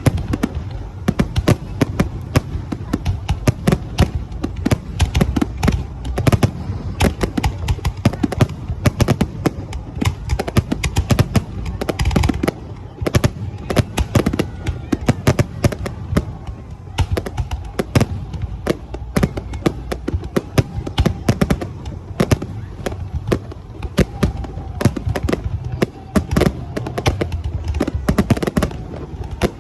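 Fireworks display: a rapid, unbroken barrage of shell bursts and crackling bangs, many overlapping each second.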